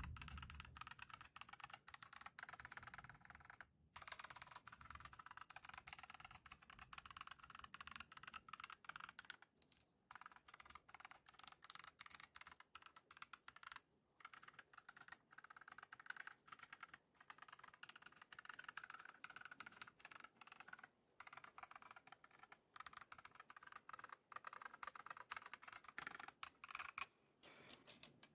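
Faint typing on a Redragon K596 mechanical keyboard fitted with Akko CS Lavender Purple tactile switches and HyperX PBT pudding keycaps: a fast, continuous run of key strokes broken by a few brief pauses.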